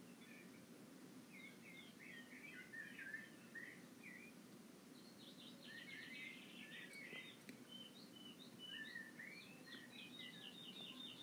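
Faint songbirds singing: short phrases of chirps and quick rapid trills, with a low steady background noise underneath.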